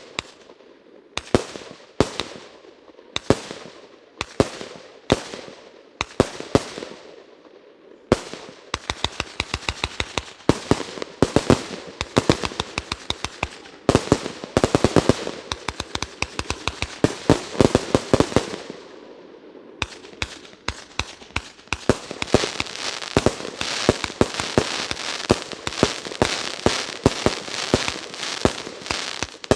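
Fireworks finale. For about eight seconds single loud reports go off roughly once a second, each with a ringing tail. Then come rapid volleys of reports, and a dense continuous crackle with many pops builds from about twenty seconds in.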